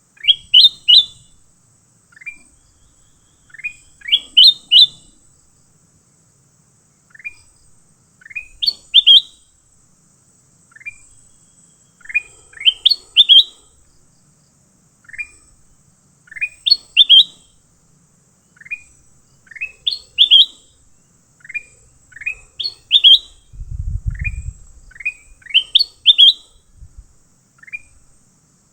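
A bird calling over and over in short, rising chirps: a few single notes, then a louder quick run of two or three, the pattern coming back about every four seconds. A dull low thump near the end.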